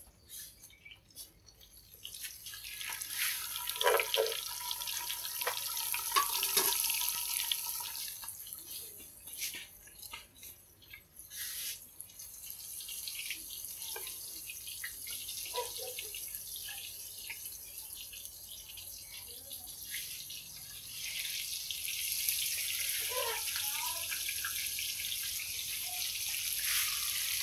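Thick slabs of seasoned tofu frying in hot oil in a pan: a steady sizzle that starts about two seconds in as the tofu goes into the oil, with a few knocks and scrapes of a metal spatula against the pan. The sizzle grows louder about two-thirds of the way through as more slabs go in.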